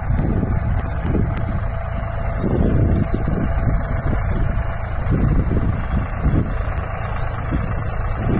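Tractor engine running, a steady low drone with uneven louder surges.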